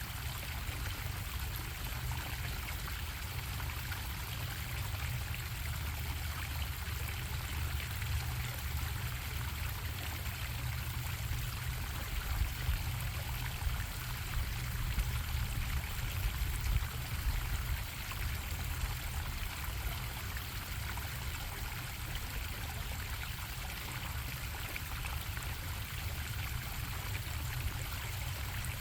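Stream water bubbling and flowing steadily, with a deep low rumble underneath.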